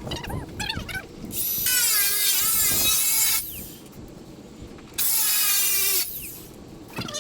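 Power drill driving screws into shed framing in two bursts, a long one of about two seconds and a shorter one of about one second. The first slows slightly just before it stops.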